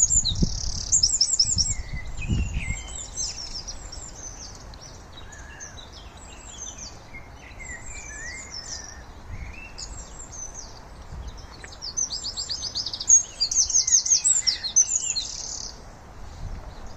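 Small songbirds singing: bursts of fast, high trills, loudest at the start and again from about twelve to fifteen seconds in, with softer scattered chirps between. A few low thumps in the first couple of seconds.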